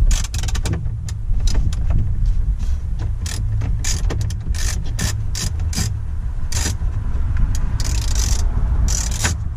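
A ratchet wrench clicking in short, irregular runs as a 10 mm dashboard bolt is worked loose, which proves more difficult to get out than it should be, over a steady low hum.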